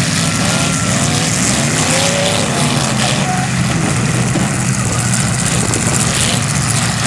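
Several demolition-derby cars' engines running loudly together as they are driven around the arena, with a few short revs rising and falling in pitch in the first few seconds.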